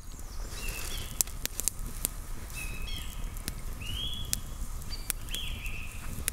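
Birds calling outdoors in short, repeated phrases about every second, over a low rumble, with sharp scattered crackles and clicks.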